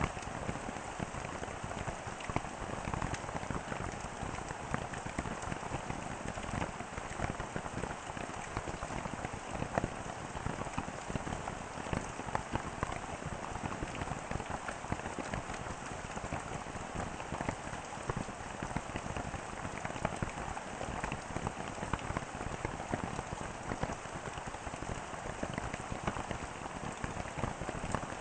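Steady rain falling, a constant hiss of many individual drop hits that does not change in strength.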